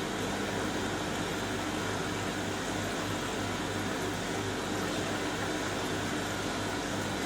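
Hoover DynamicNEXT washing machine running its final rinse on the wool cycle: a steady whir of water and drum, with a low hum that comes and goes.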